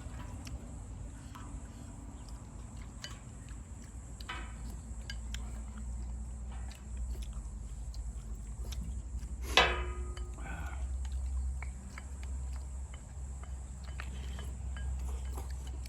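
Eating sounds at a meal: quiet chewing and small clicks of utensils, with one sharp clink of a utensil against a dish about halfway through that rings briefly, over a steady low rumble.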